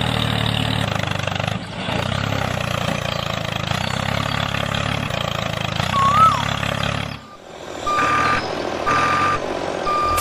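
Truck engine running steadily, stopping about seven seconds in, followed by a reversing alarm beeping about once a second.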